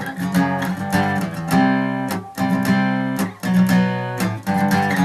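Guitar strumming a chord sequence with a pick, rapid repeated strums with brief muted breaks between chord changes.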